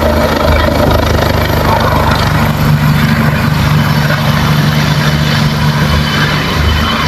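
Helicopter running loud and steady, its turbine and rotor giving a low drone with a fast, even beat from the blades.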